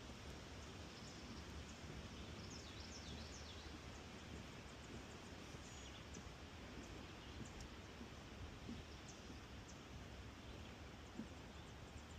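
Faint swamp-forest ambience: a steady soft hiss with distant birds giving short, high chirps, several in a cluster about a second in and a few more scattered later.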